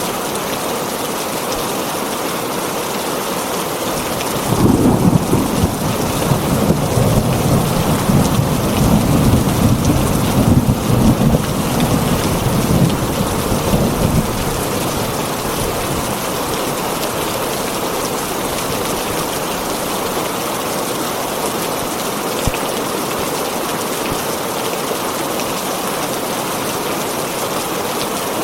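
Heavy rain drumming steadily on a tin roof. A rolling rumble of thunder comes in about four seconds in and dies away some ten seconds later.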